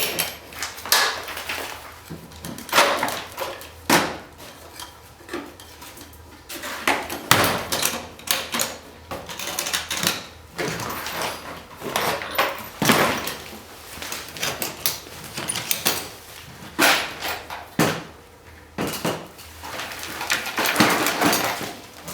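Wood fire crackling in a Supra Univers II fireplace insert, with irregular sharp pops and knocks over a low hiss.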